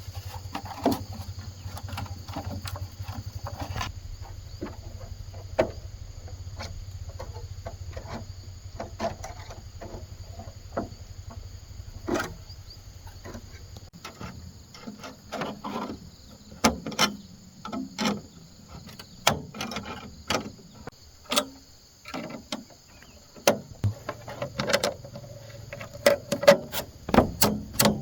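Scattered knocks and taps of bamboo being worked by hand, coming closer together near the end, over a steady high insect drone.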